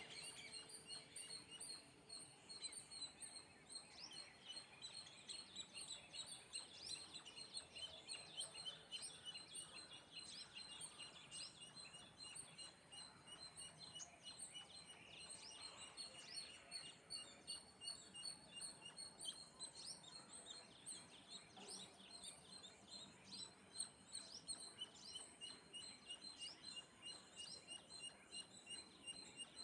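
Birds chirping and calling faintly: many short, high chirps overlap continuously, with a rapid repeated trill running under them for much of the time.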